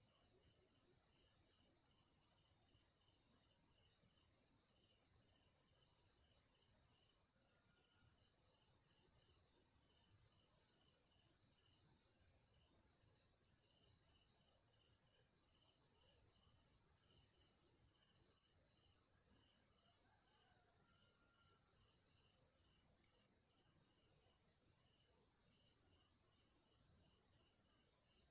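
Faint, steady chorus of insects trilling high, with one chirp repeating about once a second and a faster pulsing trill beneath it; a couple of faint short bird notes come through, one about 8 seconds in and one near 21 seconds.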